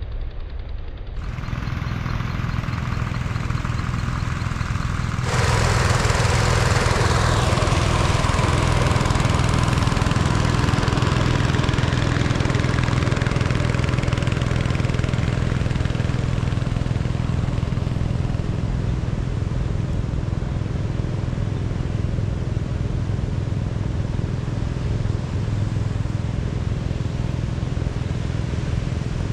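A small engine running steadily with a rapid low pulsing, growing louder about five seconds in.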